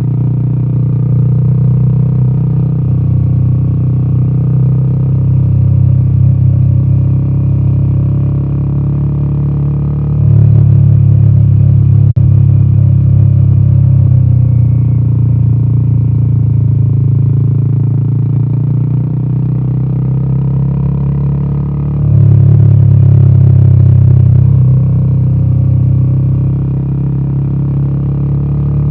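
Royal Enfield Himalayan 450's single-cylinder 450cc Sherpa engine running through its exhaust while riding, a deep steady note. It swells louder as the throttle opens about ten seconds in and again about twenty-two seconds in, easing off in between.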